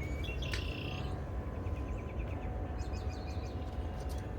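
Small birds chirping, including a quick run of short chirps in the middle, over a steady low rumble.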